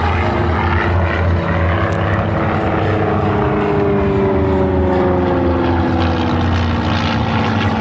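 Propeller aircraft engines droning loudly and steadily, with several tones sliding slowly down in pitch from about three seconds in.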